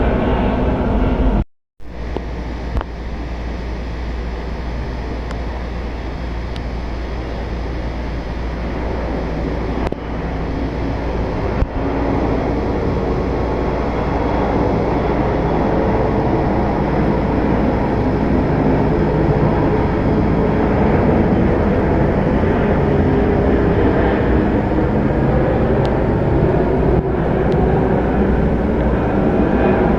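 Airbus A330-200 jet airliner's engines on approach, a steady dense jet noise with a low hum that grows gradually louder as the aircraft comes nearer. The sound cuts out briefly about two seconds in.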